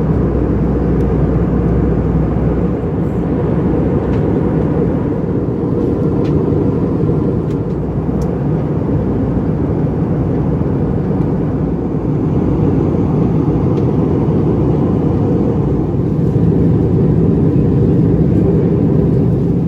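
Steady cabin noise of an Airbus A319 in flight: a deep, even rush of airflow and engine noise heard from inside the cabin.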